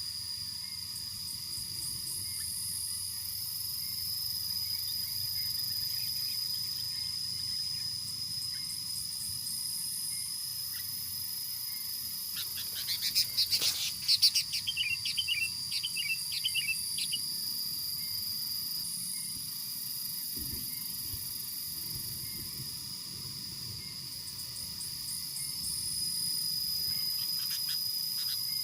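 Steady high-pitched drone of crickets and other insects, with a pulsing higher insect hiss. About halfway through comes a short burst of rapid chattering bird calls.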